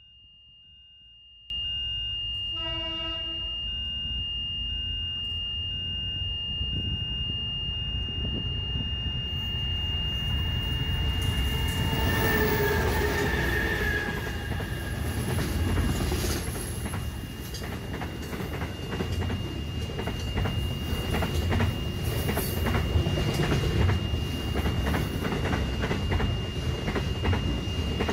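Long container freight train passing a level crossing. The crossing's warning bell starts ringing steadily about a second and a half in, the train's horn sounds briefly about twelve seconds in, and the wagons' wheels then clatter rhythmically over the rail joints.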